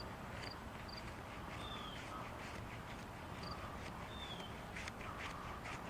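Birds calling faintly: a short high note repeated about twice a second, with a few brief falling whistles.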